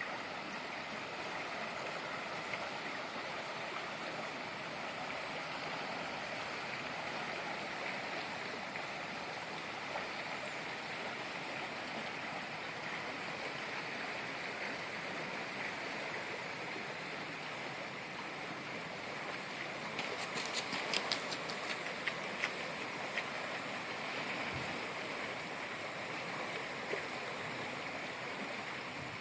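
Floodwater rushing steadily in a rain-swollen river. About two-thirds of the way through comes a short run of sharp clicks.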